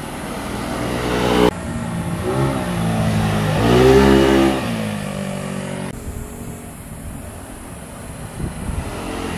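Motorcycle engines passing close by, revving up and falling away as they go past. The loudest pass comes about four seconds in, and the sound cuts off abruptly twice, about one and a half and six seconds in.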